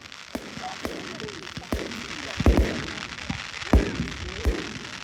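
Fireworks exploding: about six sharp bangs over a steady crackle, the loudest a quick cluster about halfway through and another near four seconds in.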